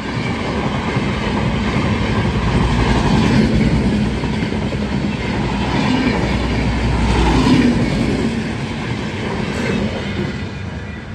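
Passenger train coaches running past close by at speed, a steady rumble and rattle of wheels on the rails that swells twice and fades near the end.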